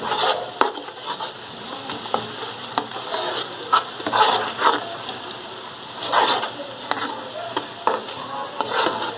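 Onions, ginger-garlic paste and ground spices sizzling in hot oil in a steel pot while a spatula stirs and scrapes through them in repeated strokes, with a few light knocks of the spatula on the pot. This is the bhuna stage, the masala being fried until its rawness cooks off.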